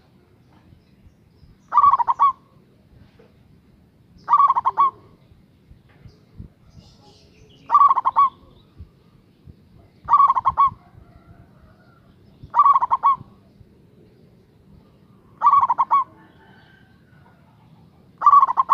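Local Javanese perkutut (zebra dove) cooing: seven short, quick stuttering coo phrases, one about every two and a half to three seconds.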